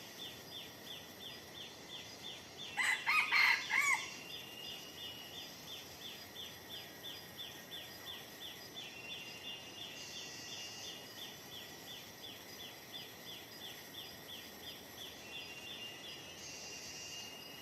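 A red junglefowl rooster crows once, loudly, about three seconds in, over insects chirping steadily in the forest at about three chirps a second, with short higher insect buzzes twice.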